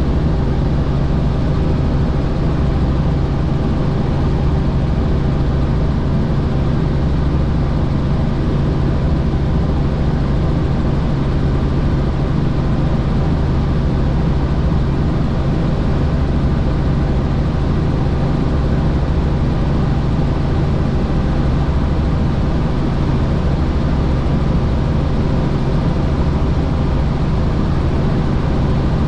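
Helicopter in steady flight: a loud, even drone of engine and rotor, with a few fixed low tones that do not change.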